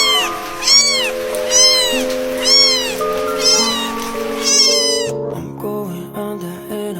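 Newborn kitten mewing, six high cries about a second apart, each rising then falling in pitch, over background music; the cries stop about five seconds in and the music carries on.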